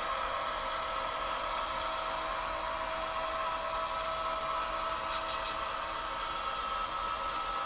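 Model Union Pacific GP38-2 diesel locomotive running, a steady engine-like hum with a constant whine that does not change.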